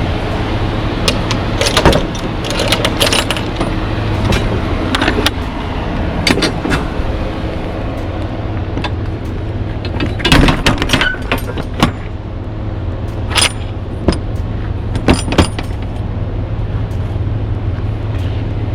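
Metal clanks, clicks and rattles of a semi-trailer's locking hardware being worked by hand, over the steady low hum of an idling truck.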